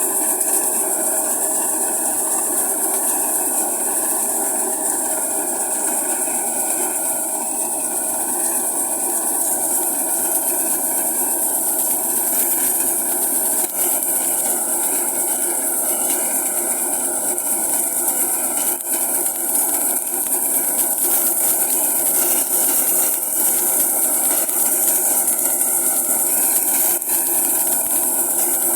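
Tractor with a reaper attachment running steadily: a constant mechanical drone with a strong high hiss over it.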